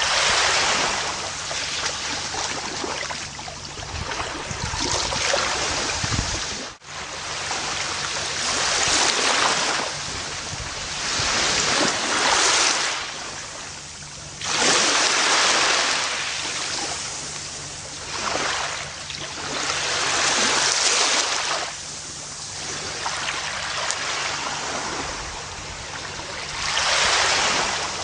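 Gentle ocean waves breaking and washing up a beach, a new surge of surf every two to three seconds. The sound cuts out for an instant about seven seconds in.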